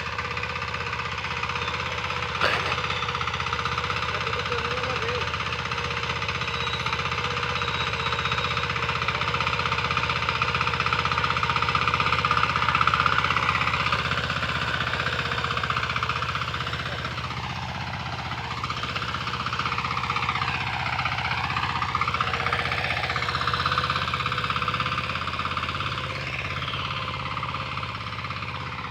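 Hand tractor engine running steadily under load. For several seconds past the middle, a wavering tone rises and falls over it.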